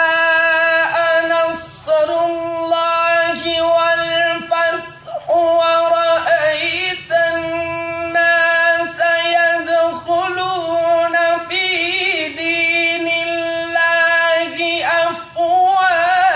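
A solo voice singing long held notes with wavering vibrato and quick melodic turns, with short breaks for breath every few seconds.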